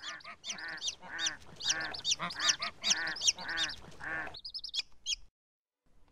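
A rapid run of bird calls, about two a second, each call rising and falling in pitch, stopping after about four seconds with a short high tone.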